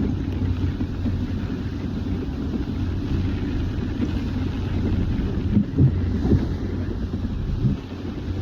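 A sailboat's auxiliary engine running steadily under way in rough seas, with wind buffeting the microphone and a few louder peaks about six seconds in.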